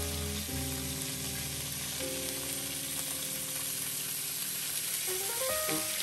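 Razor clams frying in olive oil with garlic and parsley on a griddle at full heat, a steady sizzle. Soft background music with held chords plays underneath.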